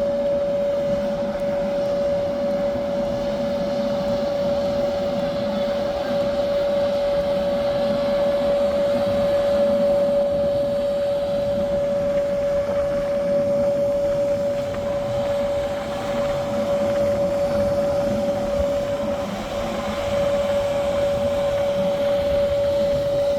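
Steady engine noise: a constant whine held at one pitch over a rushing noise, with a brief dip in level near the end.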